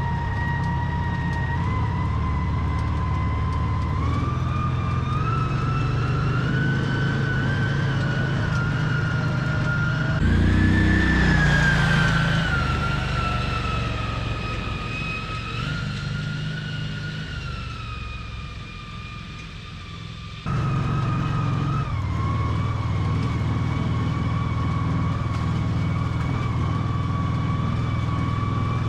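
American Landmaster L5 UTV with a 570cc Vanguard engine, being driven: a low engine drone under a high whine whose pitch rises and falls. It is loudest and highest-pitched about ten seconds in, drops away and quietens, then comes back suddenly about twenty seconds in and runs steadily.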